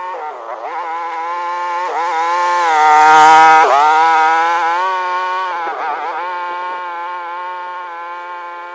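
Small vehicle engine running under load as it tows a chain drag, its pitch dipping and climbing again several times with the throttle. It grows loudest about three seconds in, then fades.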